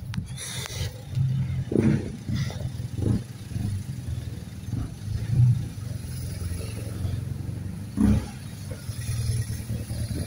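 A car engine's low rumble from street traffic, with a few short thumps at about two, three and eight seconds.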